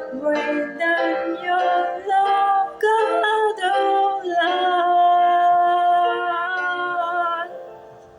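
A woman singing the closing phrase of a hymn, with the notes shifting every fraction of a second. She holds one long note in the middle, and the singing fades out near the end.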